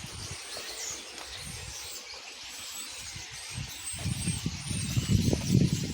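A large flock of birds calling all at once, a dense, noisy chorus of many overlapping high chirps. A low rumble joins in about four seconds in.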